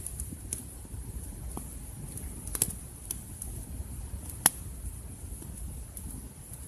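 Wood campfire burning, with a few sharp pops from the wood, the loudest about two and a half and four and a half seconds in.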